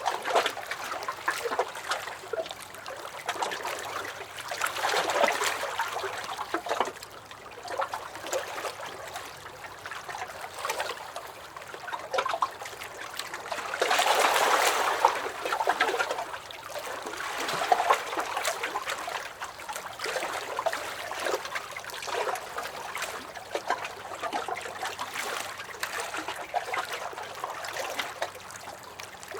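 Small lake waves lapping and sloshing against a dock, with irregular splashes and trickles; one swell about halfway through splashes louder than the rest.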